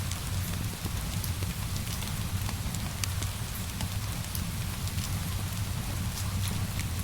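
Steady rainfall over a low, even rumble, with scattered small crackles and pops from a burning wood fire.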